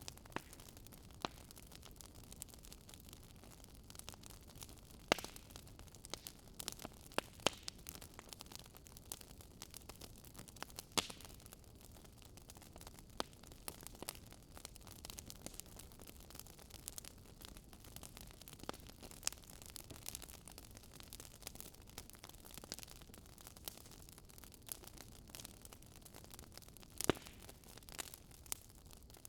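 A fire crackling in a fireplace: irregular sharp pops and snaps over a soft steady hiss, with a few louder pops scattered through.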